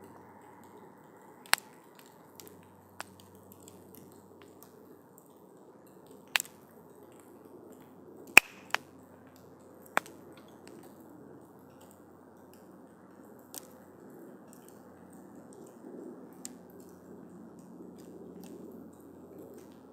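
Wood campfire burning: a soft steady rush of flames under sharp crackles and pops, several in the first ten seconds with the loudest about eight seconds in, and fewer after that.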